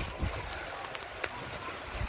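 Steady rushing noise of heavy rain and wind, with low rumbling and a few sharp ticks.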